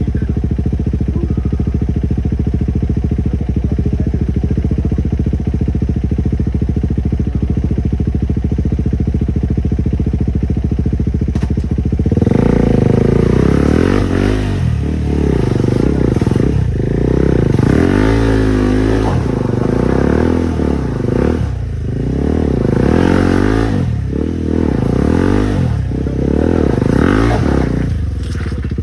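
Motorcycle engine running at a steady, even speed. About twelve seconds in it gets louder, and the revs then rise and fall over and over as the throttle is worked on the trail.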